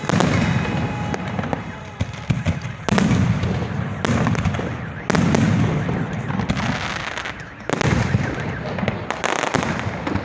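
Aerial fireworks shells bursting overhead: a loud bang every two to three seconds, each followed by a rolling rumble, with crackling in between.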